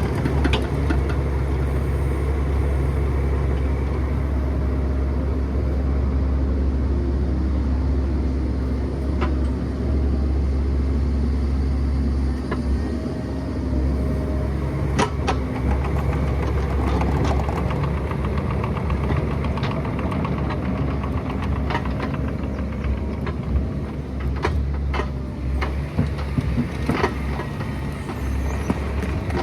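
Excavator's diesel engine running steadily, with scattered sharp clanks and knocks that come more often in the second half.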